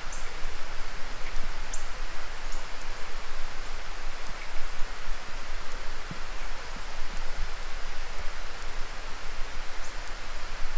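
Steady rain falling, an even hiss with no letting up, with faint high ticks about every second and a half.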